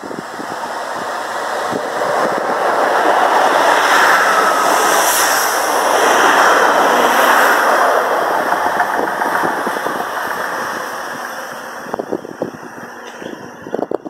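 Pacer diesel railbus passing: a rushing rumble of engine and wheels on the rails that builds over about four seconds, holds, then fades as it goes by.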